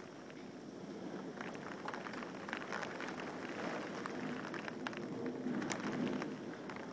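Rain falling during a thunderstorm, a steady hiss with scattered drops ticking close by. It grows a little louder about five seconds in.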